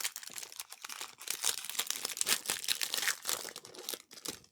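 A trading-card pack's foil wrapper crinkling and tearing as it is ripped open and handled, a dense run of crackles.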